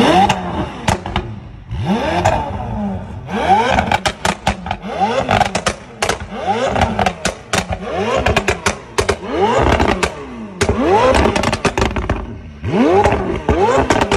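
McLaren 720S twin-turbo V8 revved repeatedly while standing still, a quick string of throttle blips, each rising and falling in pitch, with crackles and pops from the exhaust as the revs drop.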